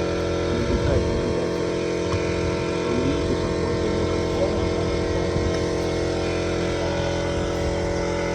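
An engine running steadily at an even speed: a constant drone with no revving.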